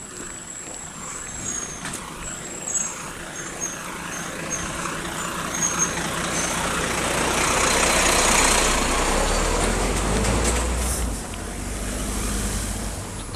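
A truck passing slowly close by: its engine and tyre noise build up, loudest about eight seconds in with a deep rumble, then ease off.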